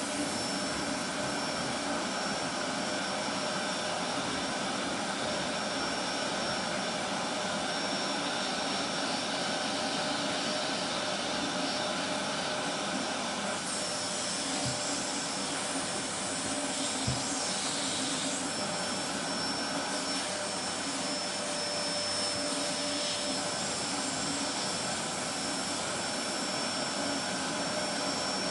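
Vacuum cleaner running steadily: an even hiss of rushing air with a faint steady motor whine, and a couple of faint ticks a little past halfway.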